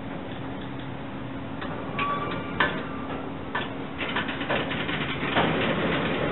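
Freight cars rolling slowly through a rail yard, their wheels clicking over the rail joints. There is a short squeal with clicks about two seconds in, and the clicking grows denser and louder from about four seconds in.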